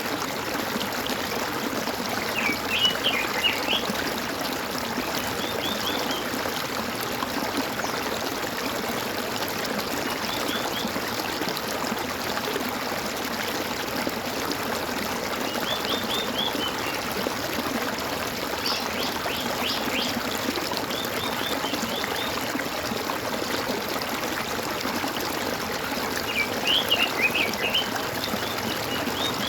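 A stream trickling and gurgling steadily, with small birds singing short bursts of rapid chirps several times over it. The loudest bursts come about three seconds in and near the end.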